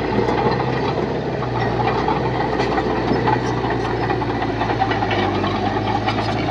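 Heavy earthmoving machine's diesel engine running steadily, with scattered light clanks and rattles over the engine note.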